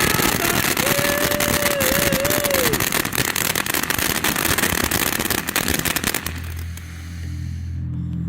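Consumer ground fireworks crackling densely, with a wavering whistle from about one to three seconds in. The crackling stops suddenly about six seconds in, leaving a low steady hum.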